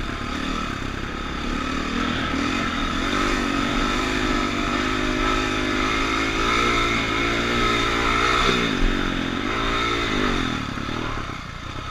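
Motocross dirt bike engine running on the track, its pitch climbing steadily as it pulls. The pitch drops sharply about eight and a half seconds in and climbs again, then the engine fades away near the end.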